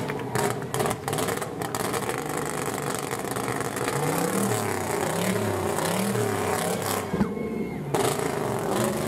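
Flame-throwing show car's engine revving again and again while fire shoots from its exhaust, with sharp pops in the first couple of seconds.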